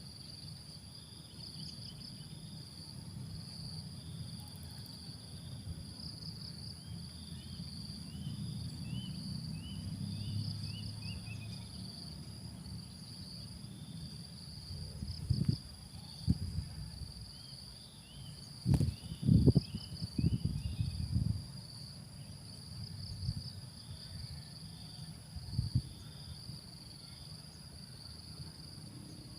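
Steady insect chorus: a continuous high drone with pulsed cricket chirps. Runs of short falling chirps come twice, and a low rumble with several loud low thumps comes in the second half, the loudest a cluster about two-thirds of the way through.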